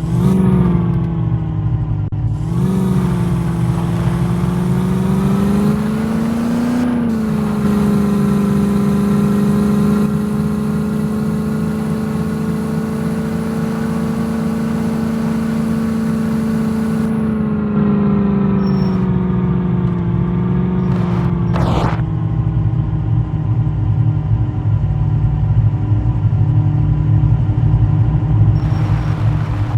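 Jeep engine running under load, its pitch rising in a few surges over the first several seconds, holding steady, then dropping back two-thirds of the way through. A brief sharp clunk comes just as the revs fall.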